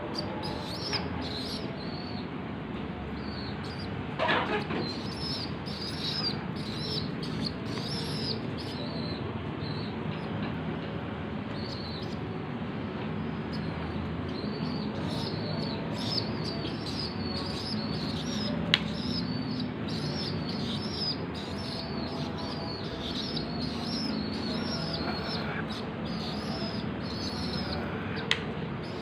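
Young domestic pigeons (squabs) being hand-fed: repeated short, high, squeaky begging peeps, about one or two a second, over a steady rustle of flapping wings, with a few sharp clicks.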